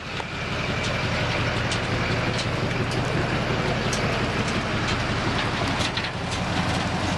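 A motor vehicle engine running steadily with a low, evenly pulsing note, over broad road or wind noise with a few scattered clicks.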